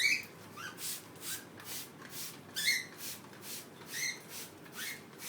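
Hand-pumped spray bottle misting water in short hissing squirts, about two a second, while cockatiels give short chirps several times.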